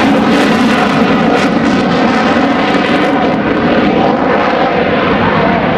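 Jet noise from a QF-4E Phantom's twin General Electric J79 turbojets, loud and steady. Its highest hiss thins out partway through.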